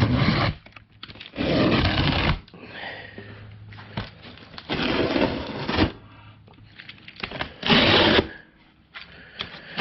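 Box knife cutting through a cardboard shipping box, four separate cuts of half a second to a second each, with lighter scraping between them.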